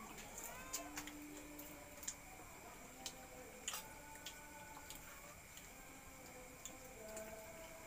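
Faint eating sounds: scattered sharp clicks and crunches of chewing crispy fried buff-banded rail (tikling) eaten by hand, with a few faint brief humming tones underneath.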